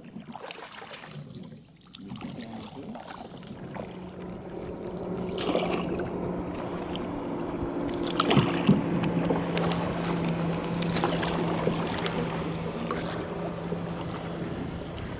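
Motorboat's outboard engine running with a steady low hum, with water rushing past the hull and wind on the microphone; it grows louder over the first few seconds.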